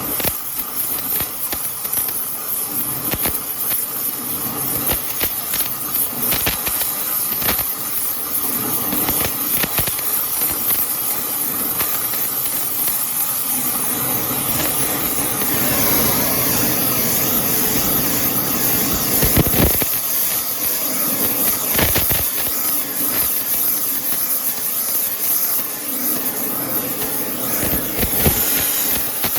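Electric welding arc crackling and hissing steadily, laying weld into the scored wheel-hub bore where a bearing spun.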